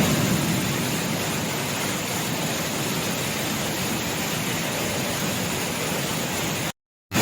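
A waterfall in flood, a heavy volume of water pouring down as a steady, dense rushing noise. It cuts out abruptly near the end.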